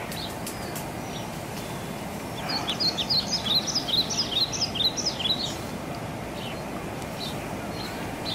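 A songbird calling a fast run of short, high chirping notes for about three seconds, starting a couple of seconds in, over a steady outdoor background hiss.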